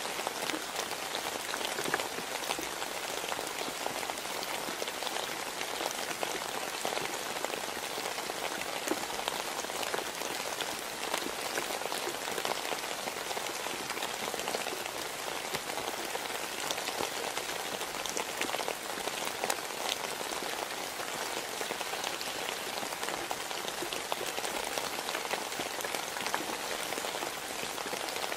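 Steady rain falling, an even wash of noise dotted with many small drop ticks, unchanging throughout.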